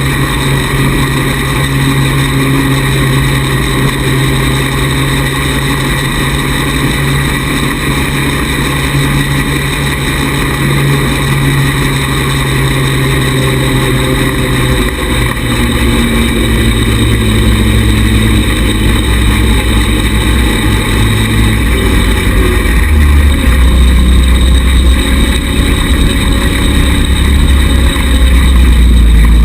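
Small 110cc buggy engine running under way. Its note drops in pitch in steps around the middle and again later, and it grows louder toward the end.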